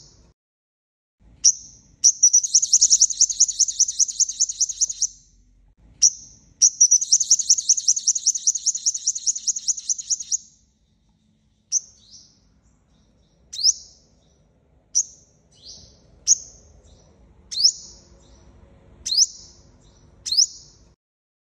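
Sunbird singing, the 'five-colour' sunbird used as a trapping lure call: two long, rapid, high trills, then a run of single sharp chips about every second and a half.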